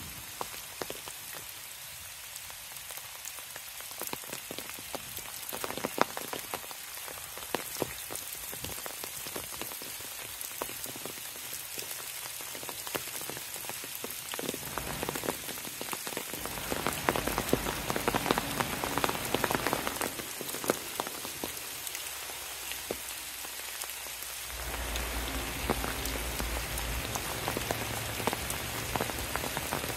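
Rain pattering on leaves and the ground, with many single drops ticking close by on the foliage. A low rumble comes in about halfway through and grows stronger near the end.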